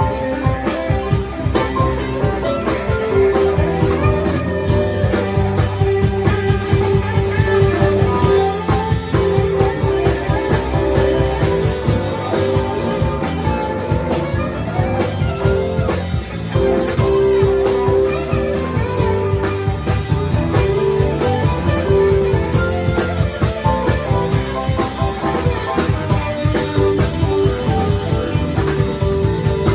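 A live band playing an instrumental passage: guitar over a steady drum beat.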